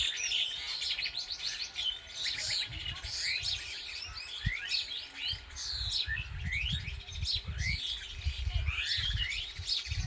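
A chorus of several wild birds chirping and calling at once, many short quick notes sliding up and down in pitch. A low rumble comes in during the second half.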